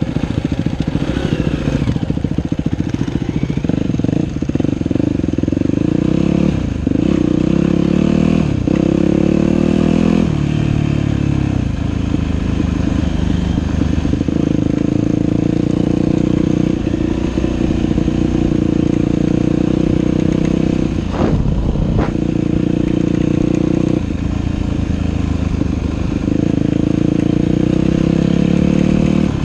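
Dirt bike engine running hard along a trail, with the revs dropping and climbing again several times in the first ten seconds as the throttle is rolled off and on or gears are changed. There is a brief clatter a little past the middle.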